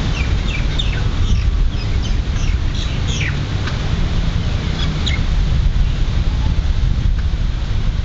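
A steady low wind rumble on the microphone, over which a bird gives a quick series of short, falling, high chirps in the first half and a couple more about five seconds in.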